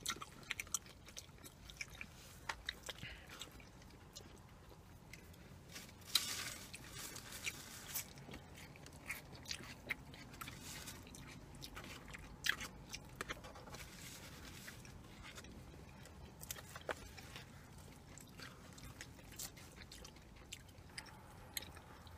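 Faint close-miked chewing and mouth sounds of people eating Mexican rice and a chicken quesadilla, with scattered small clicks. A louder rustle comes about six seconds in.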